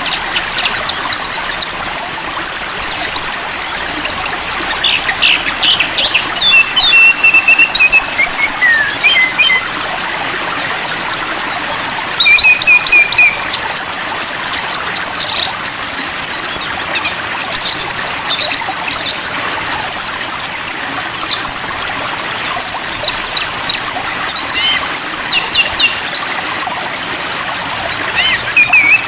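Songbirds chirping and whistling in bursts of quick, sweeping high notes over a steady trickle of running water.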